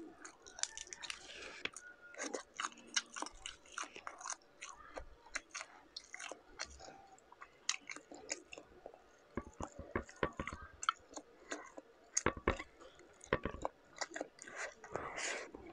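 Close-up chewing and biting of shrimp and rice, with many irregular sharp clicks and crackles as shrimp shells are peeled by hand.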